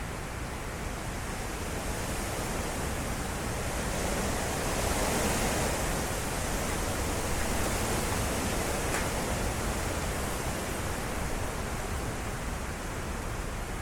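Strong derecho wind gusts, a steady rushing noise that swells around the middle and eases off toward the end.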